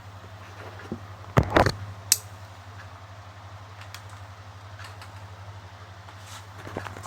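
A few sharp handling knocks and clicks, a quick cluster about a second and a half in and another knock at the very end, over a steady low hum.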